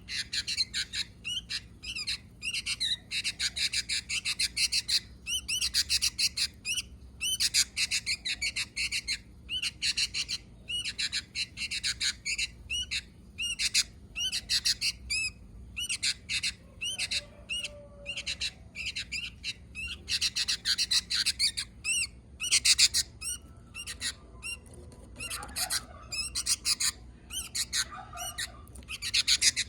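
Sooty-headed bulbul (kutilang) calling in bursts of rapid, chattering high notes, each burst a second or two long, repeated with short gaps.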